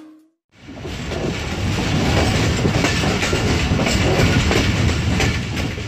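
Passenger train coach in motion, heard from aboard: steel wheels rolling on the rails with a steady rumble and an irregular clatter. It fades in about half a second in, after a moment of silence.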